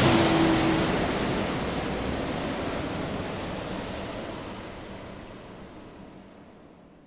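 Airplane cabin noise, a steady even hiss and hum, fading out gradually to almost nothing by the end; a faint low hum within it drops out after about a second and a half.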